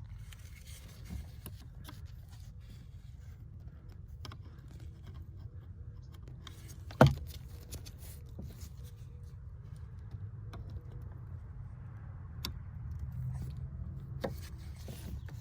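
Hand work on the blower motor resistor under a pickup's dashboard: scattered small clicks and scrapes of screws, tools and plastic being handled, with one sharp knock about seven seconds in, over a steady low hum.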